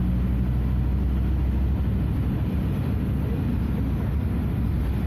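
Scania F250HB bus's DC09 five-cylinder diesel engine running under way, a steady low rumble whose even engine note turns rougher and noisier about half a second in.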